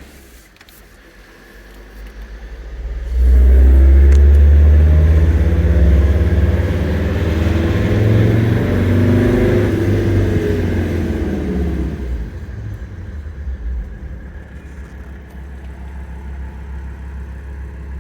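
Mercedes turbo-diesel engine in a 1994 Toyota 4Runner pulling under acceleration: it comes in loud about three seconds in, its note rising for several seconds, then falls away and runs on quieter and steady.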